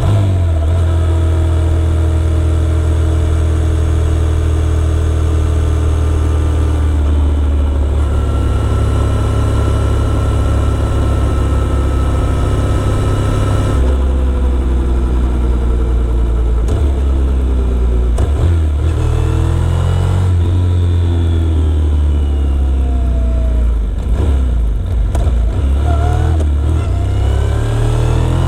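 Motorcycle engine running while riding. The engine holds a steady pitch for roughly the first half, drops about halfway through, then rises and falls repeatedly as the throttle changes.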